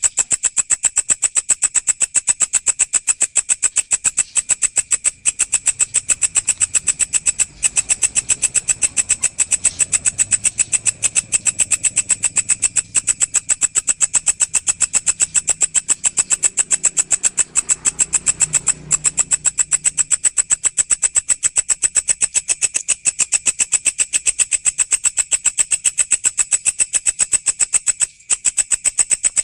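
A walang, a grasshopper-type insect, calling: a continuous rapid train of even, shrill chirping pulses that holds steady throughout.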